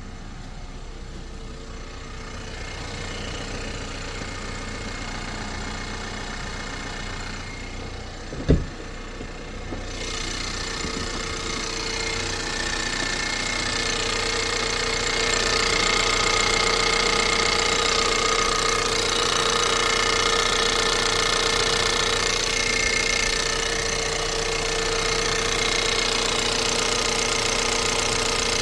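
Ford Maverick's 2.0-litre turbocharged four-cylinder engine running at idle on a cold start. A single sharp low thump comes about eight seconds in, after which the engine sound grows louder and fuller and settles into a steady idle.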